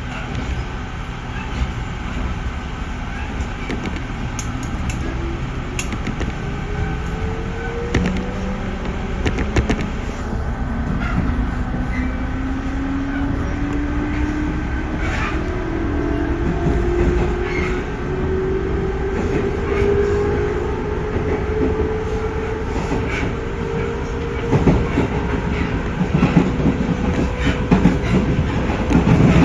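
JR 311 series electric train running, heard on board: the traction motor and VVVF inverter whine climbs steadily in pitch from about eight seconds in as the train gathers speed. Wheels clack over rail joints, most densely near the end.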